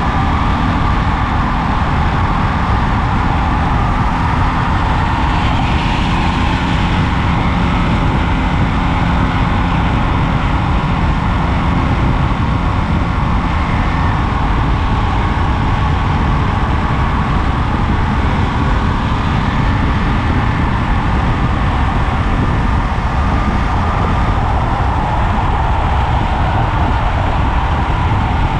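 Ducati Monster 937's L-twin engine running steadily under way, mixed with wind and road noise.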